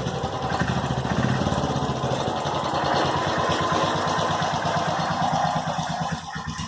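Motorcycle engine running, with a rapid, even pulse of firing strokes that becomes quieter near the end.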